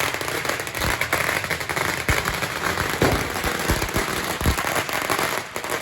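Firecrackers going off in a dense, continuous crackle, with several louder bangs mixed in; the crackling stops just before the end.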